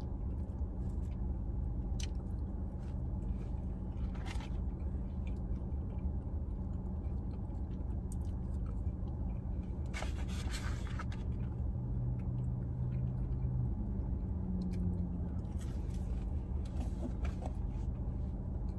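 Eating sounds, chewing and small clicks and rustles of food packaging, with a short rustle about ten seconds in, over the steady low hum of a parked car with the engine or fan running.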